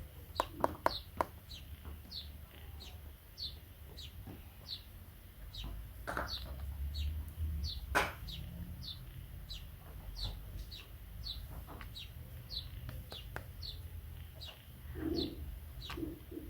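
A small bird chirping over and over, a short falling note about twice a second, with a dove cooing near the end. A few sharp clicks and a low hum lie underneath.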